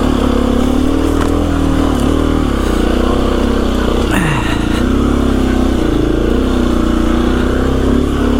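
KTM 350 EXC-F's single-cylinder four-stroke engine running under way on a dirt bike, its revs rising and falling as the throttle is worked, with a quick rev about four seconds in.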